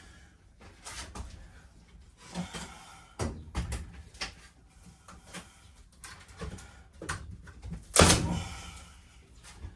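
Wooden interior boards being pulled loose and handled, knocking and clattering irregularly, with one loud bang about eight seconds in.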